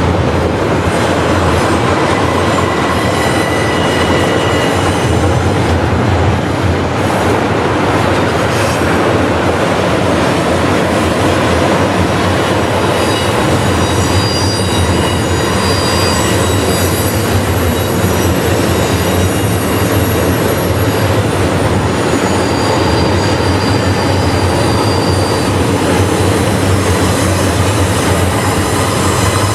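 Freight train rolling past at close range, the cars' wheels running over the rails in a steady loud rumble, with thin high-pitched flange squeals coming and going.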